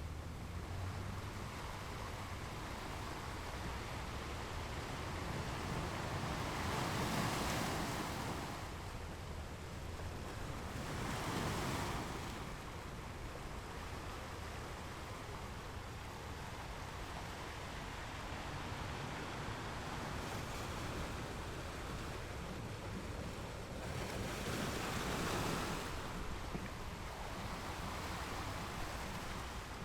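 Ocean waves breaking against rocks over a steady surf wash, with three louder surges about seven, eleven and twenty-five seconds in.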